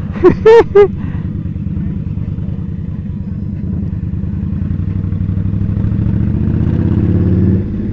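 Indian Scout's V-twin motorcycle engine running under way, pulling steadily louder through the second half and dropping off suddenly near the end as the throttle is eased.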